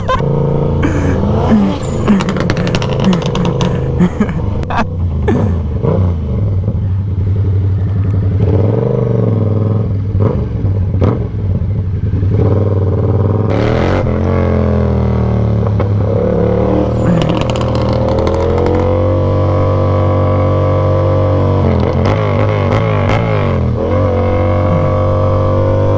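Motorcycle engine running under way, revs rising and falling with gear changes, climbing about halfway through and then holding fairly steady near the end.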